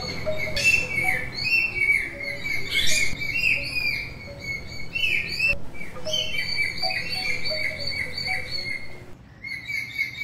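Small birds chirping and twittering, several at once, in quick repeated calls that thin out near the end.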